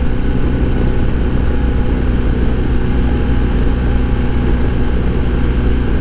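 Wind noise rushing inside a motorcycle helmet at steady cruising speed, with the BMW R1250 GS Adventure's 1250 boxer twin running smoothly and steadily beneath it.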